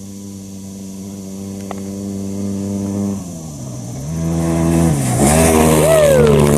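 Dakar rally motorcycle engine approaching and growing louder on a steady note, then dropping in pitch about three seconds in and revving up and down through the gears as it comes close, loudest near the end.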